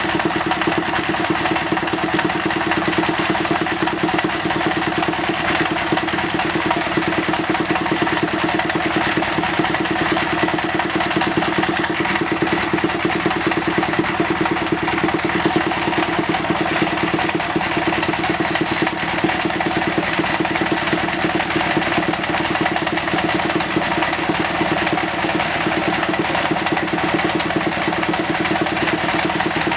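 A machine running steadily at a constant speed, with a continuous hum and no change in load.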